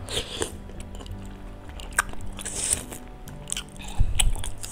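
Close-miked chewing of a mouthful of cuanki lidah, a broth-soaked dumpling, with wet mouth clicks over steady background music. A dull thump comes about four seconds in.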